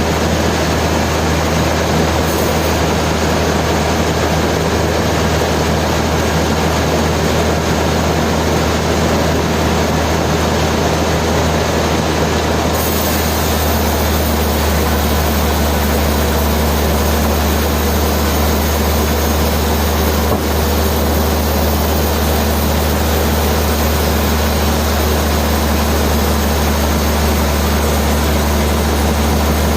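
Sawmill machinery running steadily under load, a constant low hum with a dense mechanical din over it. About thirteen seconds in the sound brightens and a second steady hum joins in.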